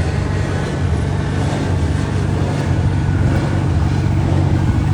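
Steady low motor hum with a haze of background noise, holding even throughout.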